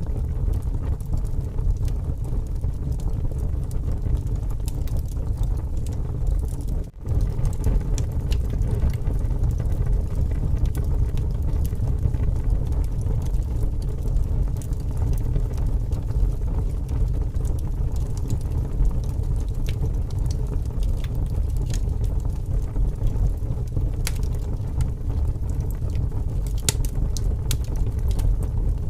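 Wood fire crackling and popping with sharp snaps over a steady deep rumble of strong wind. The sound briefly drops out about seven seconds in.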